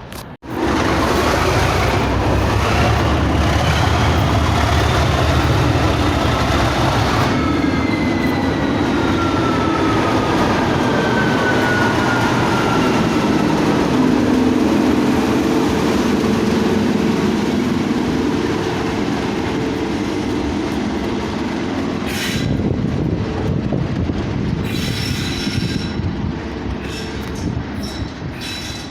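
Train running through the station close by, loud from about half a second in, with its steel wheels squealing on the rails in high whines that fall in pitch, then clicks and rattles later on.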